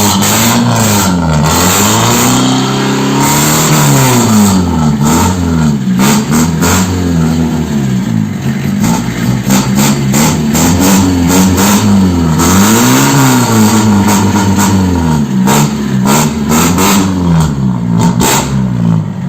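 Mitsubishi L300 diesel's engine being revved through an aftermarket wrapped ('lilitan') exhaust muffler, blipped up and falling back again and again, every second or two.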